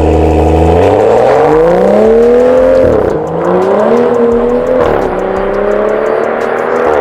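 BMW N55 turbocharged inline-six with a catless downpipe launching hard. Revs held steady, then released, the exhaust note climbing in pitch, dropping at an upshift about three seconds in and again near five seconds, then climbing again.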